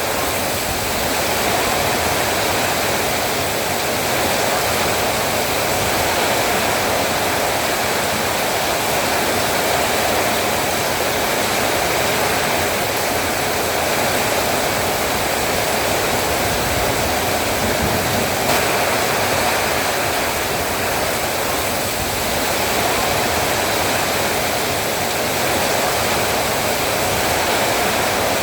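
Heavy rain falling, a steady dense hiss with no breaks.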